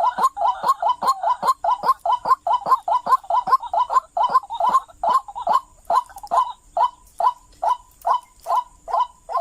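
White-breasted waterhen (ruak-ruak) calling, a rapid run of short repeated notes, about three to four a second at first and slowing to about two a second.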